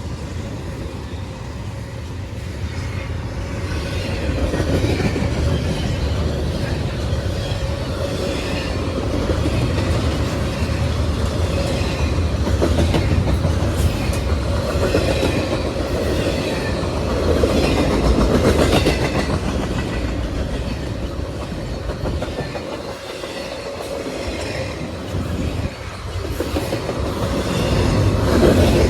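CSX freight train cars rolling past: a steady rumble of steel wheels on rail with a rhythmic clickety-clack over the rail joints.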